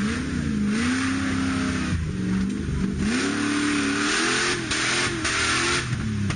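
Off-road 4x4's engine revving hard twice as it claws up a steep dirt slope. Each time the pitch rises, holds and wavers, then drops, with a rushing noise alongside the high revs.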